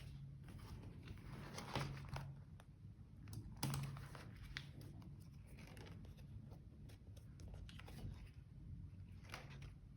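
Quiet rustling and crinkling of paper and stickers being handled while decorating a journal, with scattered light taps and a sharper crackle about three and a half seconds in.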